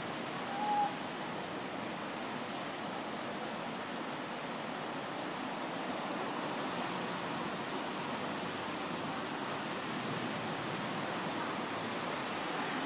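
Steady rush of heavy storm rain falling, with a brief short tone just under a second in.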